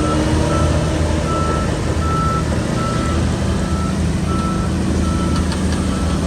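Bulldozer's diesel engine running steadily under its reverse alarm, which beeps on one pitch about once every three-quarters of a second as the machine backs up.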